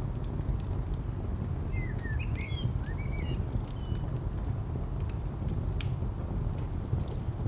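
Layered ambience: a steady low rumble of distant traffic under a wood fire crackling with scattered sharp pops. Bird chirps come and go a couple of seconds in.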